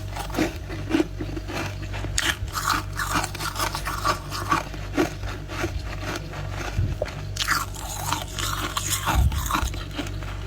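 A person biting and chewing a mouthful of freezer frost, close up, with many irregular sharp crunches throughout.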